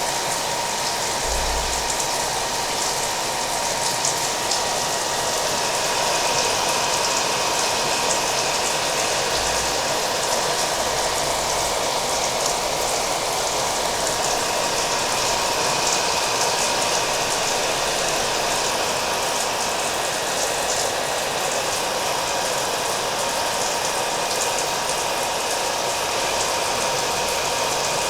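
Hair dryer running steadily, a constant whir with a thin steady hum, mixed with the patter of rain.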